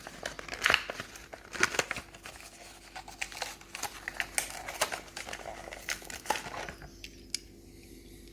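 Plastic blister and card backing of a carded Hot Wheels die-cast car being torn open, with crinkling and sharp crackles that thin out near the end.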